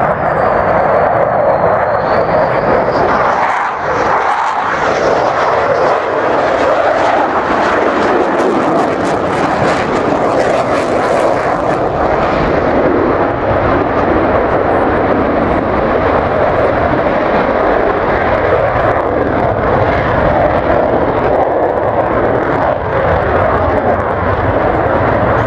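Fixed-wing aircraft flying a display, its engine noise loud and steady, with a brief dip about four seconds in.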